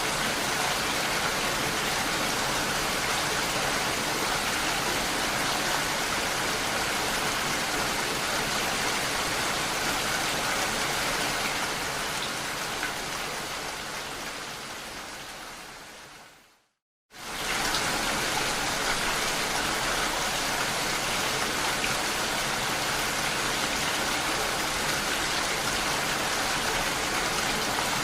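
Steady rain hiss of drops striking window glass. About two-thirds of the way through it fades away to a moment of silence, then comes straight back at full level.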